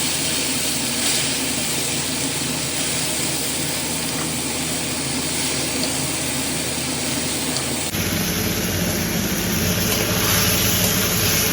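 A pan of hot oil sizzling with a steady hiss, as the onion, garlic and spice tempering for khichuri fries. The sound changes abruptly about eight seconds in, to a slightly different sizzle with a low hum under it.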